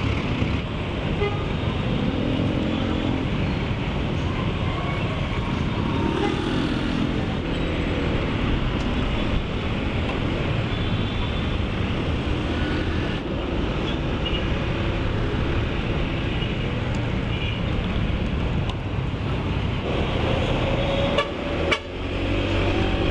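Busy city traffic heard from a moving motor scooter: steady road, engine and wind noise, with a few short vehicle horn toots from the surrounding traffic.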